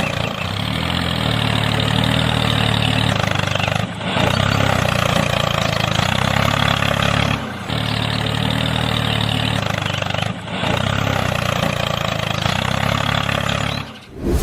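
Motor of a home-made mini tractor running steadily, with a low hum and a buzzy upper haze. It breaks off briefly three times and stops just before the end.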